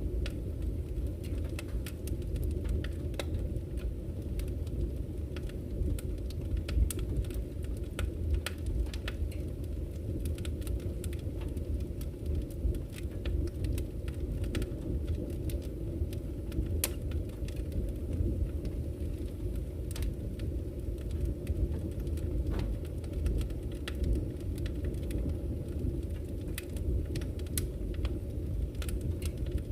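Wood campfire crackling, with frequent irregular sharp pops and snaps, over the steady low rush of a flowing river.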